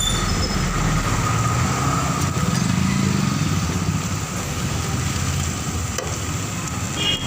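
Steady motor traffic on a busy road: engines and motorcycles running, with no breaks.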